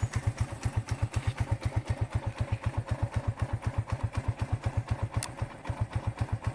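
Honda Mega Pro's single-cylinder four-stroke engine idling through its original stock exhaust, an even low thump of about eight pulses a second. Just after a single sharp click about five seconds in, the pulses briefly weaken before picking up again.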